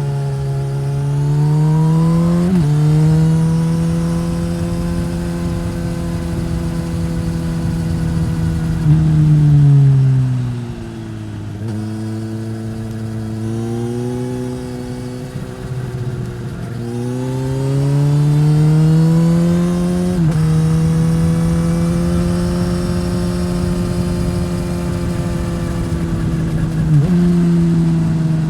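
2015 Suzuki GSX-S1000's inline-four engine through a Yoshimura R-11 slip-on exhaust, accelerating through the gears: the pitch climbs and drops sharply at each upshift. Near the middle it falls away as the bike slows, then climbs again through more shifts.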